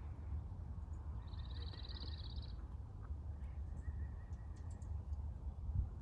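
A small songbird gives one rapid, buzzy chattering call about a second and a half long, starting a little over a second in. A few faint high ticks follow, all over a steady low rumble.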